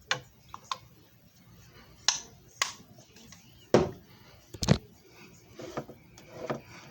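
Sharp clicks and knocks from handling a JFJ Easy Pro disc repair machine, about six over a few seconds, with softer rubbing and clattering near the end.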